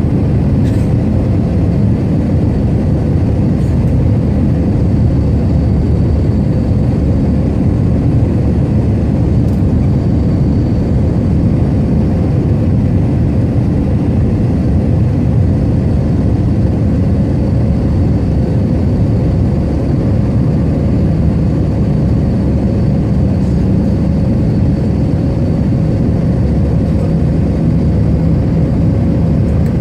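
Airbus A320 cabin noise: a loud, steady jet-engine rumble with a steady hum running through it.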